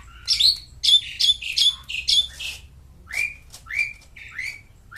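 Bird-like chirping: a quick run of sharp, high chirps in the first half, then slower single chirps about every half second, each sliding up in pitch.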